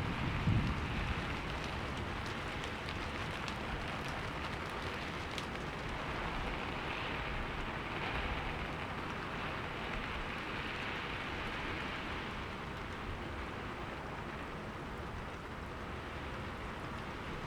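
Steady heavy rain, with scattered drop clicks. The tail of a low thunder rumble dies away in the first second.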